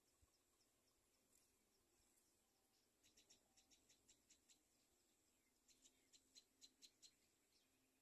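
Faint, rapid runs of short, high bird chirps, one starting about three seconds in and another near six seconds, each lasting about a second and a half.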